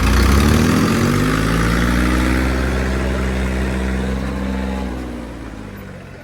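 Diesel tractor engine revving up hard in the first second and holding high revs under load during a tug-of-war pull, then dropping away and fading after about five seconds.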